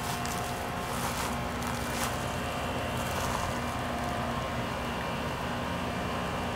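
A steady machine hum with a few faint steady tones, even in level throughout.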